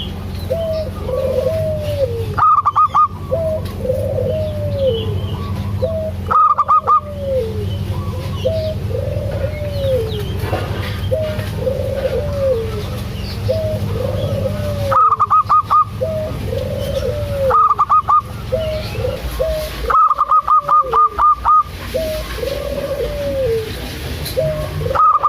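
Zebra dove (perkutut) cooing over and over in short arched notes, broken about six times by quick runs of higher, rapid staccato notes.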